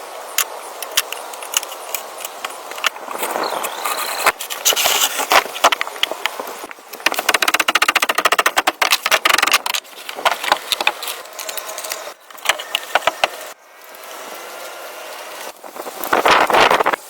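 Hand-tool woodworking: a string of sharp knocks on wood, with a stretch of rapid rasping strokes a third of the way in and a louder rasping passage near the end.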